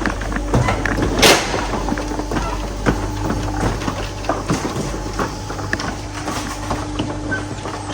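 Renault Sport R26 engine in a Clio idling steadily, with knocks and rattles of garage doors being opened and one loud sharp clatter about a second in.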